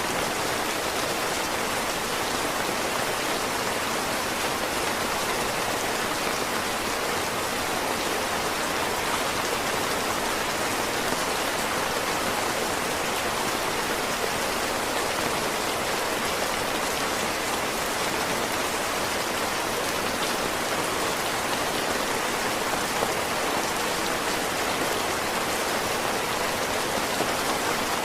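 Heavy rain falling steadily, a dense even hiss of drops with no change in strength.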